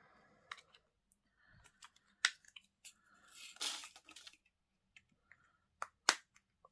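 Small plastic diamond-painting drill containers being handled: scattered sharp plastic clicks and knocks, with a brief rustle about three and a half seconds in as a sticky label is peeled off.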